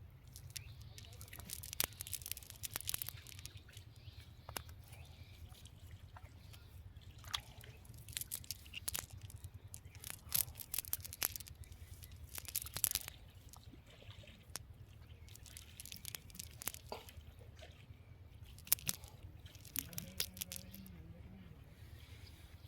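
Water splashing and dripping in scattered bursts of short sharp splashes, over a steady low rumble.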